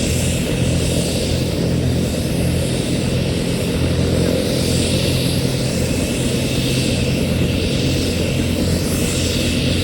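Military helicopter's turbine engine and rotor running steadily for takeoff: a loud, low rotor drone with a hiss of turbine noise above it that swells and fades slowly.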